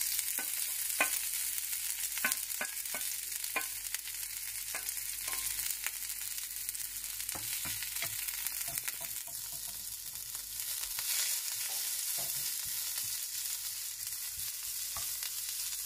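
Cabbage and garlic sizzling in a little oil in a pan, with frequent short clicks of a utensil against the pan as they are stirred.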